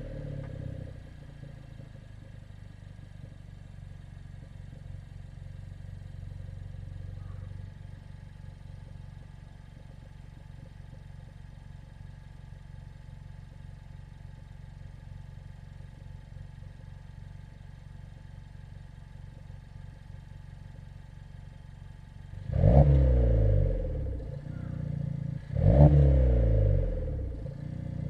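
Suzuki Swift Sport ZC33S's 1.4-litre turbocharged four-cylinder idling steadily through a Monster Sport Sp-X dual sport aftermarket exhaust, just after starting, with the idle easing slightly about seven seconds in. Near the end it is revved twice, each a quick rise and fall in pitch.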